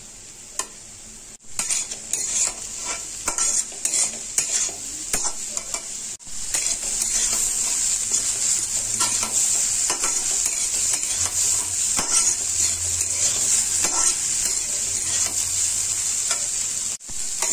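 Grated cauliflower sizzling as it fries in oil in a metal kadhai, stirred and scraped round the pan with a metal spatula that clicks against the metal. The sizzle grows steadier and louder about six seconds in, with a couple of brief breaks.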